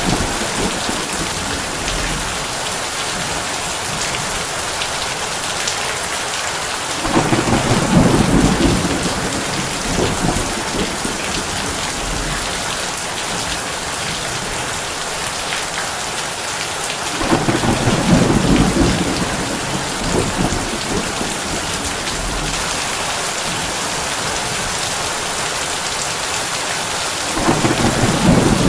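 Heavy rain drumming on a tin roof in a steady hiss, with three low rumbles of thunder, each lasting a couple of seconds, about ten seconds apart.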